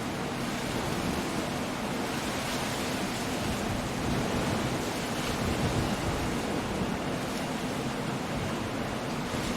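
Stormy sea with wind and rain: a steady, dense rushing wash of surf, swelling a little about halfway through.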